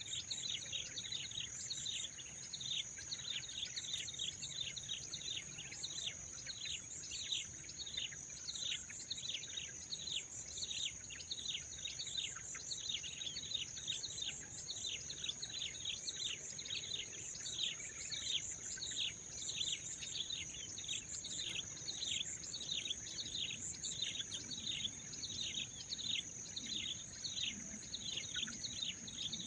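Birds chirping continuously in quick, repeated downward-sliding notes, over a steady high-pitched insect drone.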